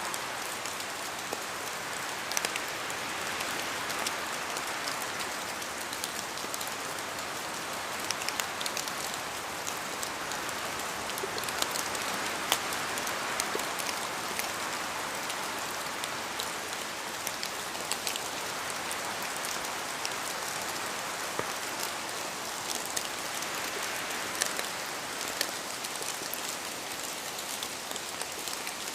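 Steady rain falling, an even hiss with many sharp drops pattering on a surface.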